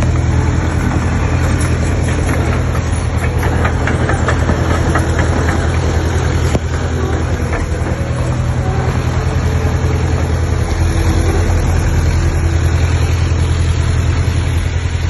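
Komatsu D20P bulldozer's diesel engine running steadily at a low, even pitch, with a run of light clicks and rattles between about two and seven seconds in.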